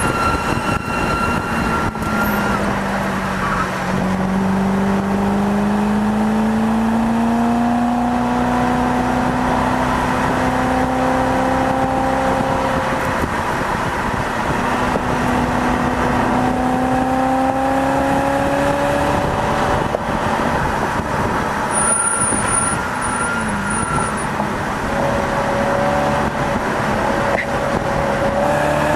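Car engine pulling hard at track speed, its pitch climbing slowly over several seconds at a time and dropping back a few times as it shifts up, over a steady rush of noise.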